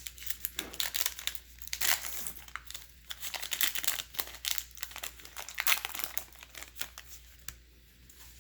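Plastic wrapper of a baseball card pack crinkling and tearing as it is opened, in a run of sharp crackles that thins out near the end.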